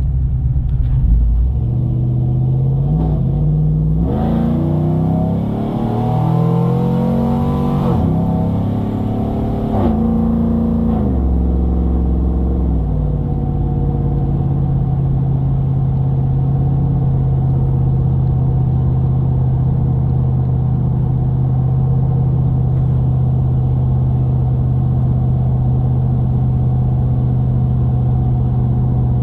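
Cammed Chevy Silverado under way, with engine and exhaust pitch climbing and then dropping back several times as it accelerates through the gears. It then settles into a steady low drone at cruising speed.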